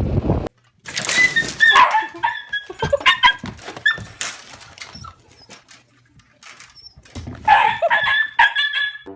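A dog barking and yapping in short high calls, in two spells with a quieter stretch of scattered knocks between them.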